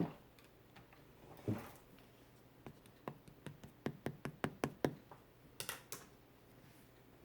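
A run of light taps and clicks, two to three a second, from hands handling the clay and its materials on a tabletop, with a brief soft rustle before and after.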